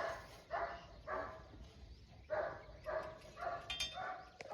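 An animal calling in a run of short barks, about two a second, with a pause of about a second near the middle.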